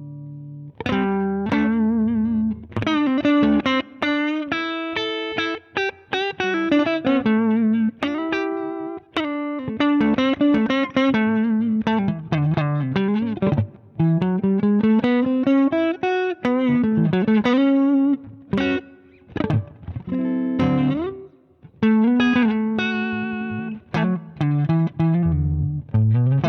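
Electric guitar played through a Zander Circuitry Surplus overdrive pedal: a lead line of single notes and short phrases with several string bends and brief pauses between phrases.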